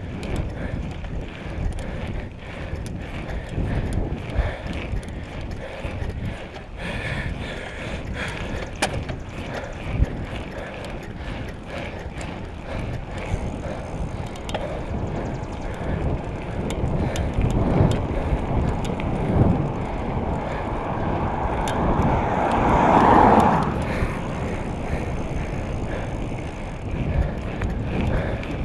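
Bicycle being ridden: continuous wind buffeting on the microphone, mixed with the rattle and clicks of the tyres and drivetrain. A louder swell of noise comes near the end.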